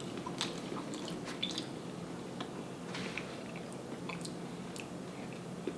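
Close-miked chewing and wet mouth sounds of someone eating, with scattered small smacks and clicks, over a steady low hum.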